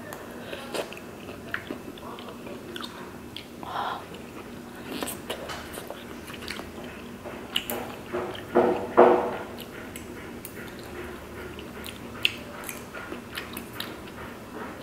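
Close-up eating sounds of tteokbokki: chewing and biting on soft rice cakes, with scattered short clicks of metal chopsticks and spoon against the steel pan and a couple of louder mouth sounds a little past the middle.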